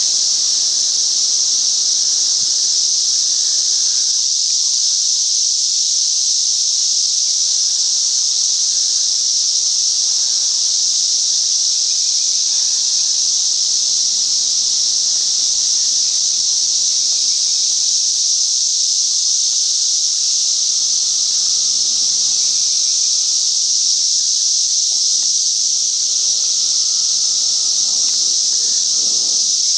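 Dense chorus of periodical cicadas during a mass emergence: one loud, steady, high-pitched drone that never breaks.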